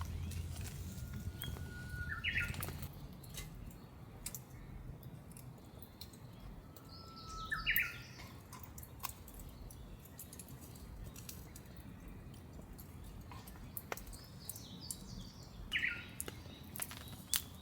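Rain dripping and pattering with scattered sharp taps, while a bird sings three times, about 2, 7 and 16 seconds in; each song is a long held whistle that jumps up to a short, higher phrase.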